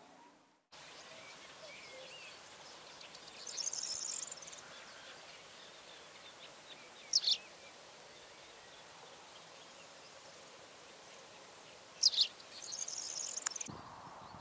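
Outdoor ambience of small birds: two sharp, high chirps that sweep down in pitch, one about halfway and one some five seconds later, over a steady faint hiss, with short high buzzy trills between them and just before the end. The sound starts and stops abruptly with cuts in the film.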